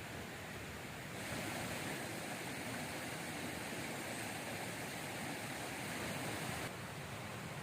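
Steady rushing of flowing river water, stepping up louder and brighter about a second in and dropping back abruptly near the end.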